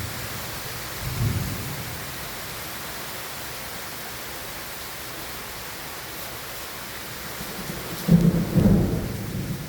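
Steady rain during a thunderstorm, with thunder rumbling: a short low rumble about a second in and a louder rumble near the end.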